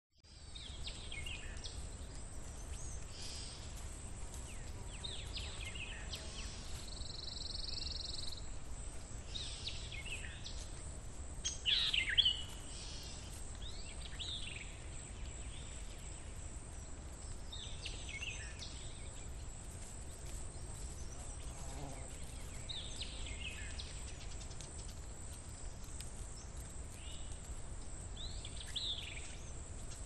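Birds chirping now and then in short, falling calls over a steady low background rumble, with the loudest burst of calls about twelve seconds in.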